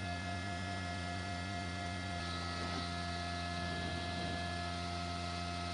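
A steady hum: a low drone with several constant tones stacked above it, unchanging throughout, and a faint high hiss that grows slightly about two seconds in.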